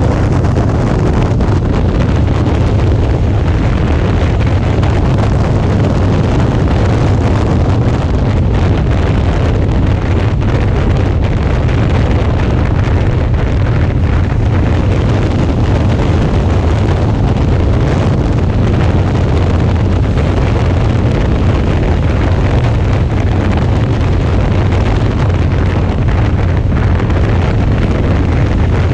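Steady wind buffeting on the GoPro microphone of a Suzuki V-Strom 650 riding at road speed, with the motorcycle's engine and road noise mixed in underneath. It holds one even level with no sudden changes.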